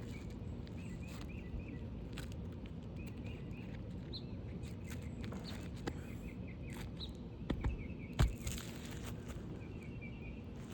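Steady outdoor background noise with small birds chirping repeatedly, a few light clicks and rustles, and one sharp knock about eight seconds in.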